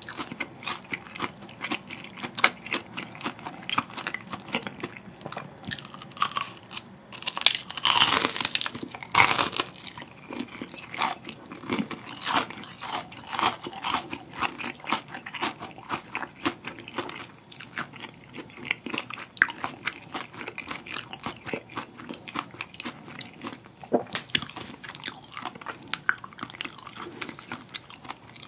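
Close-miked crunching and chewing of crispy deep-fried battered jumbo shrimp: a loud crisp bite about eight seconds in, with dense crackly chewing before and after.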